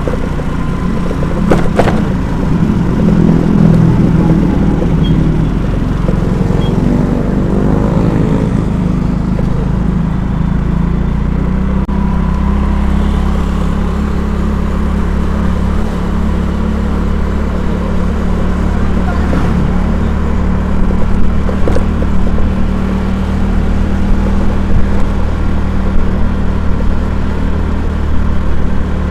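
A vehicle's engine runs steadily while on the move, with its pitch shifting in the first several seconds.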